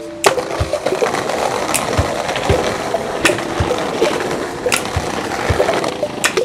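Skateboard wheels rolling over rough pavement in a steady rush, with several sharp clicks and low knocks from the board along the way.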